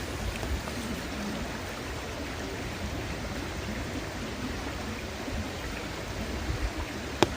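Steady rushing of a river, with a single sharp pop of burning wood crackling in the campfire just before the end.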